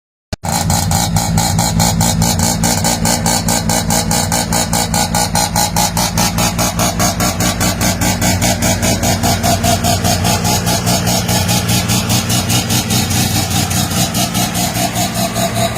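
Mazda RX-7's twin-rotor Wankel rotary engine idling with a steady, rhythmic pulsing lope, several pulses a second. It cuts in abruptly after a brief silent gap at the start.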